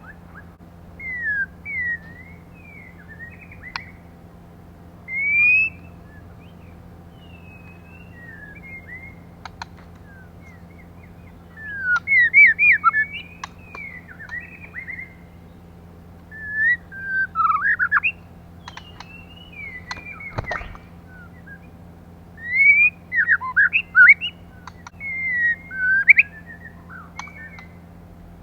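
Female white-rumped shama calling in short bursts of clear whistled notes and chirps, with rising and falling slurs and pauses between the phrases. The phrases come thicker and louder from about halfway on. A steady low electrical hum runs underneath.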